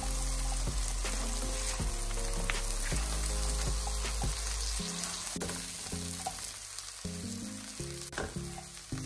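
Tiger shrimp sizzling in butter in a wok as a spatula stirs and tosses them, with occasional clicks and scrapes of the spatula against the pan; the sizzle eases off a little in the second half.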